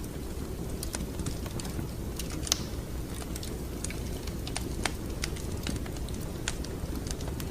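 Wood fire crackling in a fireplace: a steady low rumble with scattered sharp pops and snaps, the loudest pop about two and a half seconds in.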